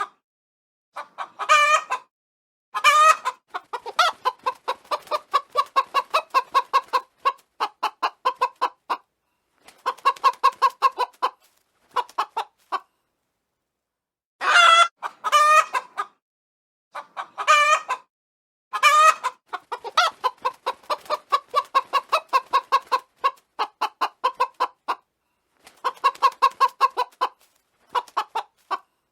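Chickens clucking in quick runs of short even clucks, broken by several longer, louder drawn-out calls. The pattern repeats about halfway through.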